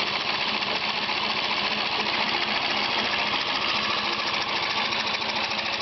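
A 2 hp Briggs & Stratton model 62502 single-cylinder engine, converted to run on compressed air, running steadily with a fast, even train of hissing exhaust puffs. The air tank feeding it is losing pressure.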